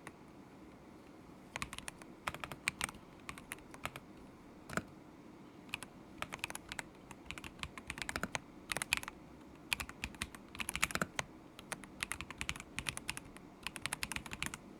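Typing on a stock KZZI K75 Pro mechanical keyboard with Moment linear switches. The keys click-clack in quick bursts with short pauses, starting about a second and a half in.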